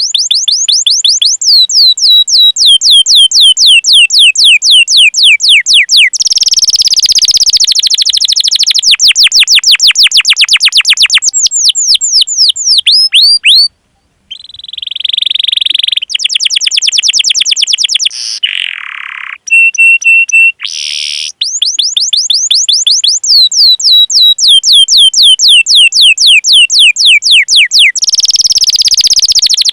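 Domestic canary singing loudly: long runs of rapid, repeated falling whistled 'cuit cuit' notes alternating with dense rolling trills, broken by a short silence about 14 seconds in.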